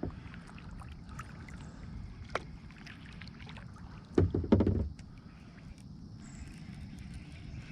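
Small handling sounds in and on a kayak on the water: a steady low rumble of wind and water with scattered light clicks, and a louder, deep knocking thump a little over four seconds in.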